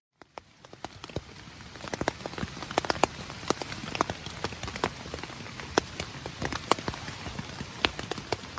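Wood campfire crackling: irregular sharp cracks and pops over a steady hiss, swelling in over the first two seconds.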